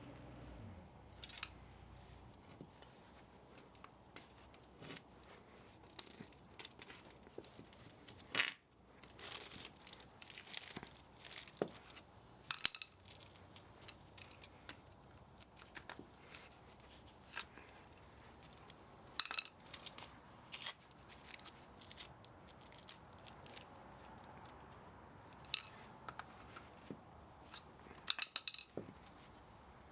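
Hand work on a scrapped electric motor: irregular clicks, scrapes and tearing sounds as metal parts are pulled and cut. A power tool runs down in the first second or two.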